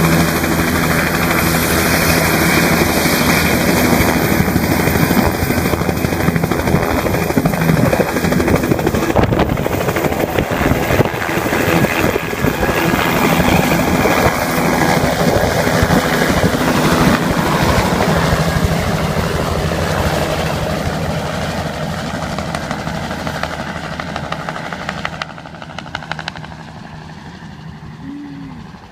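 Helicopter in flight: a steady rotor and engine roar that gradually grows quieter over the last ten seconds or so and fades away near the end.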